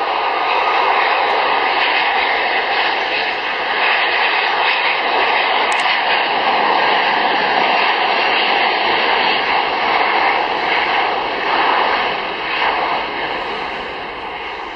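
Airbus A340-600 jet engines running at high power: a loud, steady rush with faint steady whining tones in it, fading over the last few seconds as the aircraft moves away.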